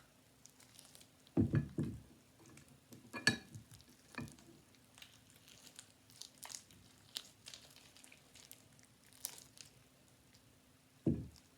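Slime being squished and handled: scattered small wet crackles and squelches, with a few louder knocks, two in the first few seconds and one near the end.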